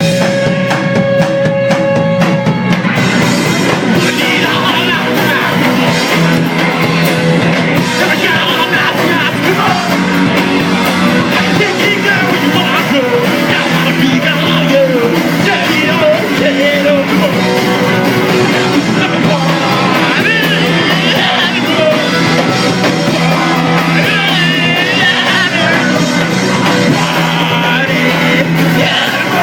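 Punk rock band playing live at full volume: drum kit and amplified instruments with yelled singing. A single held note sounds for about the first two and a half seconds before the full band comes in.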